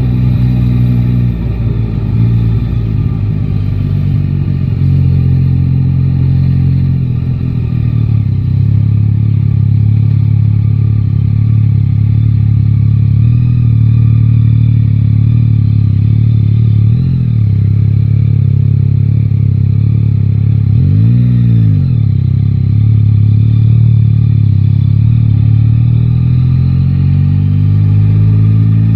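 Yamaha Tracer 9 GT's inline three-cylinder engine running on the move, mostly at steady revs. There are short dips in engine speed at gear changes, a quick rise-and-fall rev blip about two-thirds of the way through, and revs climbing near the end.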